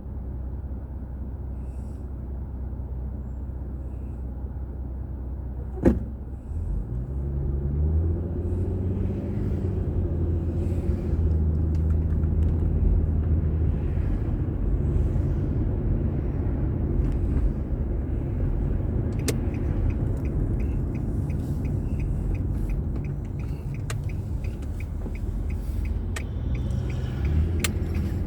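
Car engine idling low and steady, a single sharp click about six seconds in, then the engine rising in pitch as the car pulls away and settles into steady driving with road rumble. Faint regular ticking in the last several seconds.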